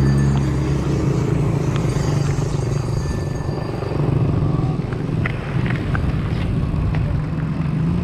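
A motor vehicle engine running close by, a steady low drone with road noise. A few short high chirps come in about five to six seconds in.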